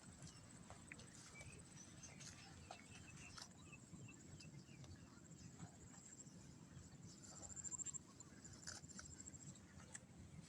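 Near silence: faint background with scattered soft ticks, and a faint rapid high-pitched trill that grows about two-thirds of the way through.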